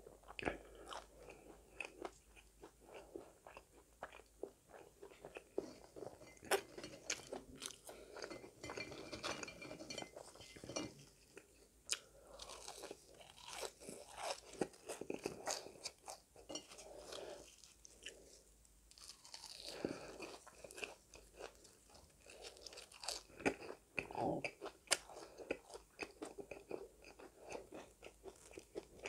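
Close-miked chewing of French fries: many crisp crunches and bites, one after another.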